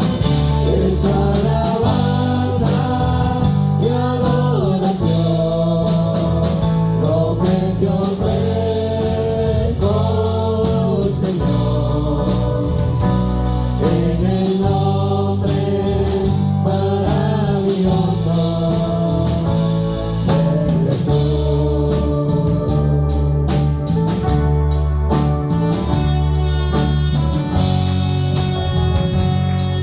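Live gospel worship music: voices singing long, sliding notes together over a steady bass line and drums.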